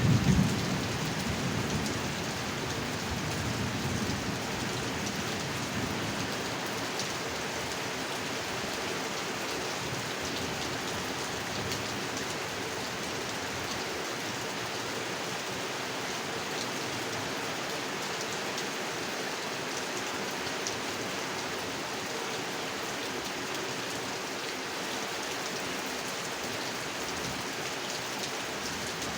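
Heavy rain falling steadily on a pond, an even hiss of drops on water. A low rumble of thunder dies away in the first few seconds.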